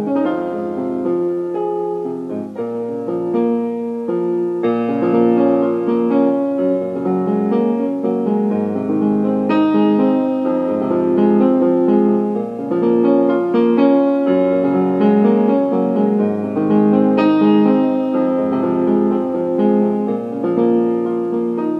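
Background piano music, a slow melody over changing chords.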